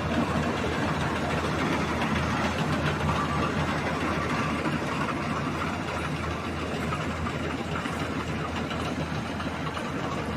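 Rice combine harvester running steadily in a paddy field, its engine and machinery making a continuous drone.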